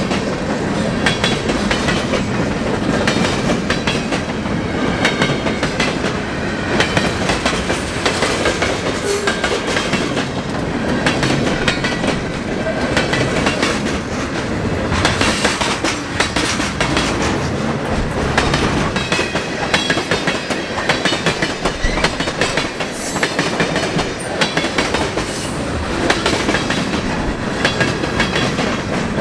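Freight train rolling past at close range, its steel wheels clacking steadily over the rails.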